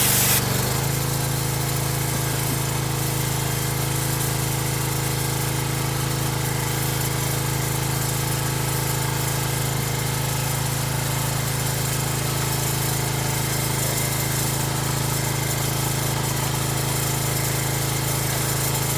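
Excavator engine idling steadily with an even, constant hum. A loud hiss cuts off within the first half second.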